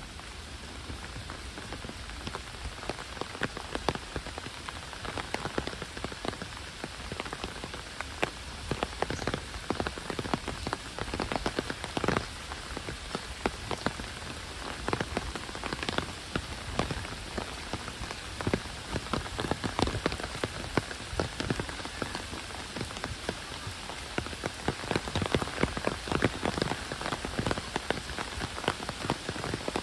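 Heavy rain falling: a steady hiss with many sharp, close drop strikes throughout.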